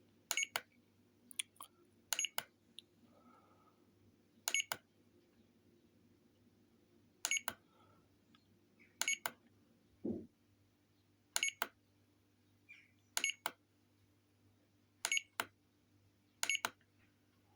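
LiPo cell meter beeping: short double beeps about every two seconds, while it reads a 3-cell pack with a disconnected balance-lead cell as only 2S. A faint steady hum runs underneath, and there is one soft low thump about ten seconds in.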